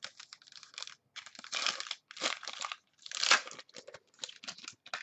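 Foil trading-card pack wrappers being crinkled and torn open by hand, in a string of irregular rustles and crackles.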